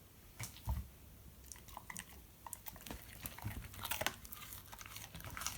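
Husky chewing and crunching a venison dog treat, with irregular sharp crunches.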